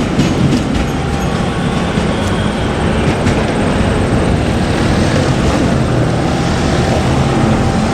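JR Kyushu 817 series electric train running over the level crossing: steady rumble with a few sharp wheel clacks over the rail joints in the first second and again about three seconds in.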